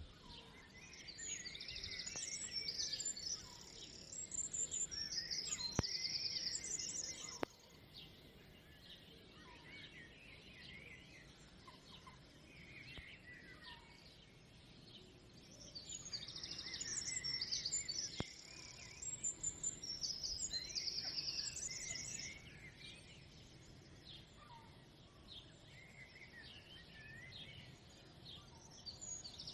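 Songbirds chirping and singing in fast, high-pitched trills, in two loud bouts about fifteen seconds apart, with quieter scattered chirps between them over a faint outdoor hiss.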